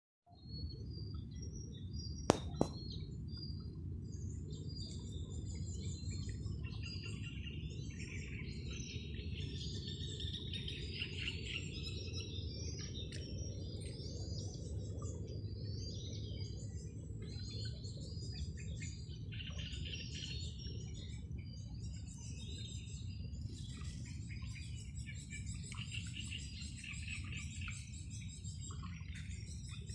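Several birds chirping and singing continuously, many short overlapping calls, over a steady low background rumble. Two sharp clicks a little over two seconds in.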